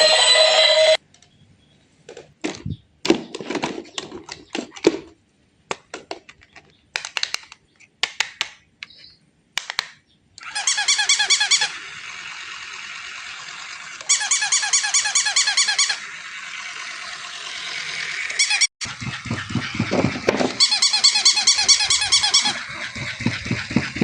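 A battery-operated toy: a run of small clicks and knocks, then three stretches of fast, evenly repeated high electronic chirping, with a steady motor hum between them and low thuds near the end.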